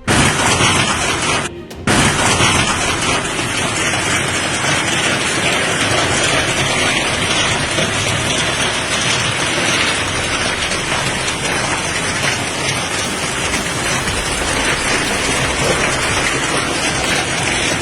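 Heavy hailstorm: hailstones pelting down in a dense, loud, steady clatter. It breaks off briefly about a second and a half in.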